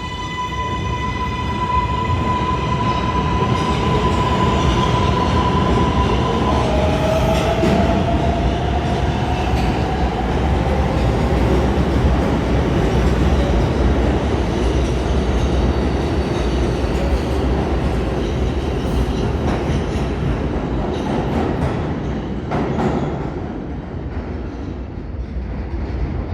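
R142A subway train pulling away under power: the traction motors give an electric whine that climbs, holds one pitch for several seconds, then drops and rises slowly again, over the steady rumble of wheels on the track.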